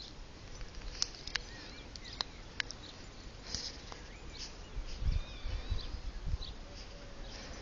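Faint outdoor ambience with a few short, high chirps from small birds, scattered sharp clicks, and some low thuds about five to six and a half seconds in.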